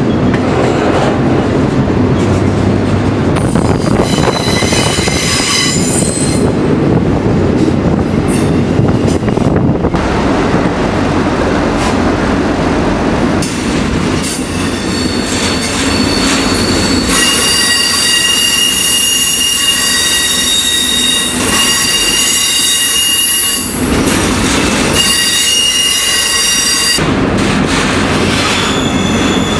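Moving freight train heard from aboard a container car: a steady rumble and rattle of wheels on the rails. High-pitched wheel squeal in several steady tones comes in for a few seconds near the start and again for a longer stretch through much of the second half.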